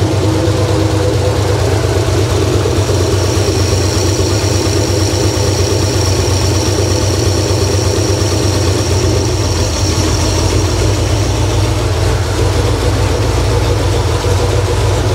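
Newly rebuilt Ford 302 small-block V8 with a Holley four-barrel carburetor idling steadily while its carburetor is being adjusted; about nine to ten seconds in, the deep bottom of the engine note changes.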